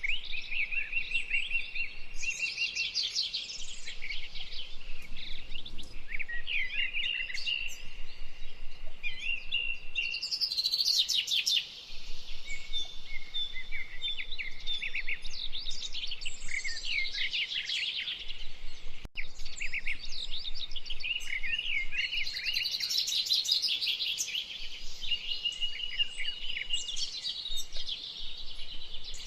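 A flock of red-winged blackbirds calling together, a dense, continuous chorus of short chirps, chacks and trilled songs overlapping one another.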